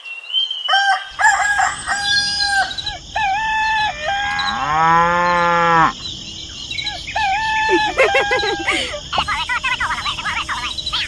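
Rooster crowing and chickens clucking in a run of short pitched calls, with one long, lower cow's moo about halfway through and a busy chatter of clucks near the end.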